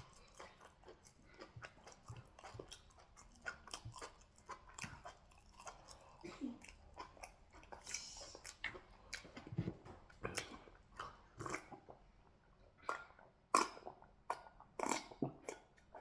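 Close-miked wet chewing and mouth clicks of a person eating fufu and goat meat in peanut soup, a steady run of short smacks that grow louder and closer together near the end.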